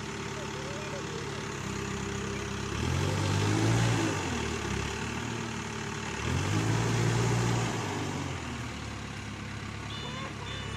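Case backhoe loader's diesel engine running, revving up twice under load and settling back to a steady idle between.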